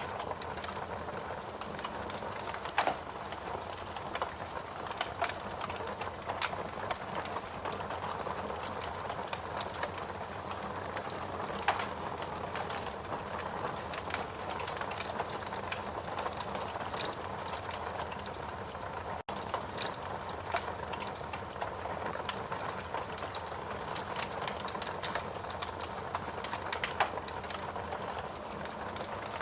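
Log fire burning in a fireplace: a steady hiss of flames with frequent small crackles and a few louder pops. The sound cuts out for an instant about two-thirds through.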